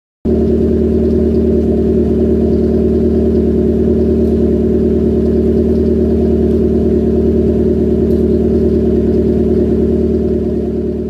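Suzuki Swift Sport's four-cylinder engine running at a steady speed through an RC Racing Groupe N exhaust, with a steady droning exhaust note; it cuts in suddenly at the start and fades away at the very end.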